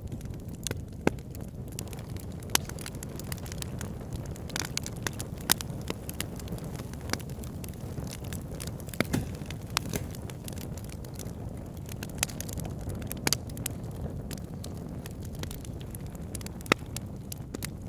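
A wood fire burning in a fireplace, with a steady low rumble and irregular sharp crackles and pops, a few of them louder than the rest.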